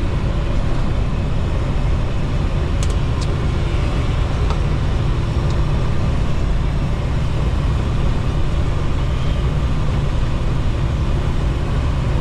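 Steady low rumble of a semi truck's engine and tyres heard inside the cab while driving at road speed, with a few faint clicks about three to four and a half seconds in.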